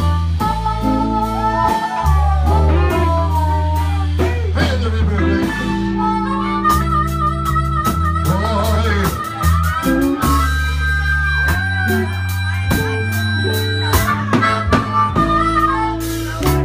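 Live blues band playing a slow blues instrumental intro: harmonica wailing bent notes over electric guitar, bass and drums.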